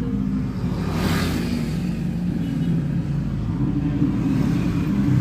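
Motor vehicle engine running steadily, with a brief rush of noise about a second in.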